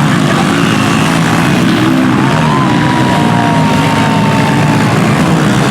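Several small single-cylinder four-stroke pit bike engines running hard together in a loud, continuous drone, with one higher engine note sliding slowly down in pitch in the middle.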